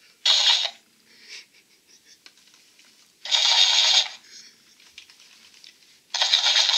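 Talking plush parrot toy playing back three short, crackly, pitchless bursts through its tiny speaker, a few seconds apart, the last one the longest.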